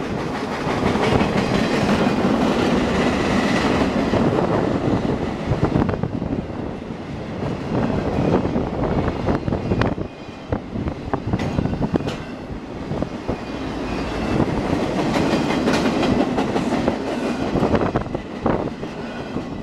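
Freight train flatcars rolling past close by: a steady rumble of steel wheels on the rails, with sharp clicks as the wheels cross rail joints.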